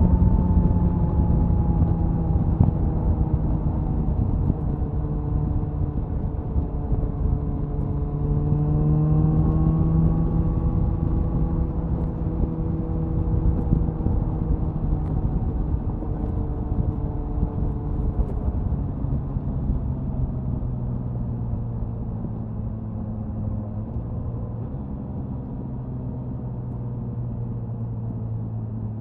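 Suzuki Hayabusa's inline-four exhaust under way, with wind rush. The engine pitch slowly falls, rises briefly about nine seconds in, then settles lower and quieter near the end as the bike eases off.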